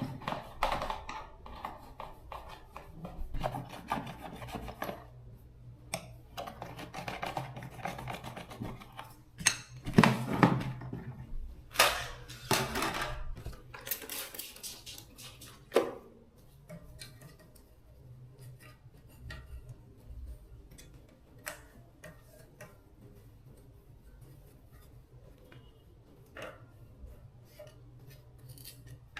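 Repeated hand rubbing and scraping strokes, as in sanding or filing a part during a fan motor restoration. About halfway through they give way to scattered light clicks and taps.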